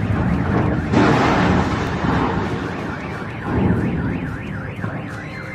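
Noisy rumble in the aftermath of a gas explosion: a sudden rush of noise about a second in that dies away, and another swell a few seconds later. About halfway through, a car alarm begins, its tone warbling rapidly up and down, set off by the blast.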